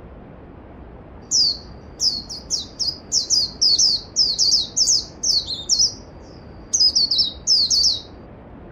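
A songbird singing a long run of quick, high, downward-sweeping notes, starting about a second in and stopping near the end, over the steady rush of a mountain stream.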